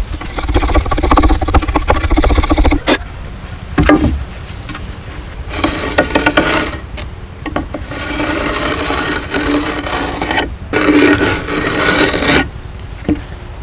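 A hand tool scraping wood in several long rough passes, with short pauses and a few sharp knocks between them.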